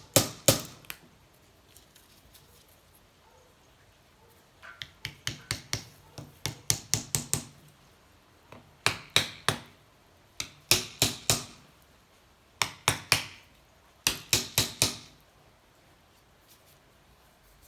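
Hammer blows in quick runs of sharp knocks with pauses between, driving a wooden stick against a seized piston to walk a stuck cylinder off a 1984 Honda C70 engine.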